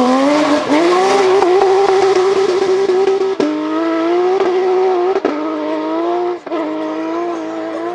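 Porsche GT3 rally car's flat-six engine pulling hard at high revs. Its pitch climbs in steps, cut by three short breaks at the upshifts.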